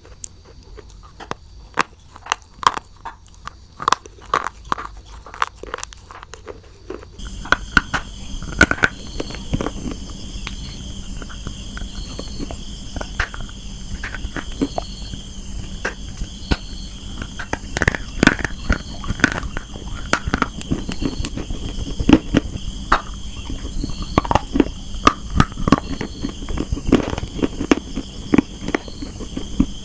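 Dry, brittle clay (slate pencil and multani mitti) being bitten and chewed close to the microphone: a long run of irregular sharp crunches and cracks. About seven seconds in, a steady background hum with a thin high whine comes in under the crunching.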